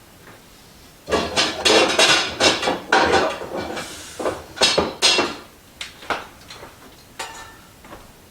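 Metal pots and pans clanking and knocking together as a pot is pulled out from among them: a dense run of clatter starting about a second in, then scattered knocks.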